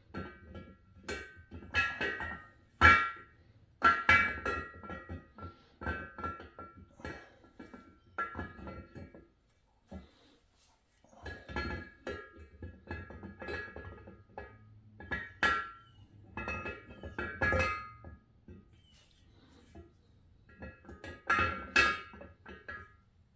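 Steel camshaft clinking and knocking against the block as it is slid in through new cam bearings, each contact leaving a short metallic ring, in irregular bursts with a brief pause near the middle.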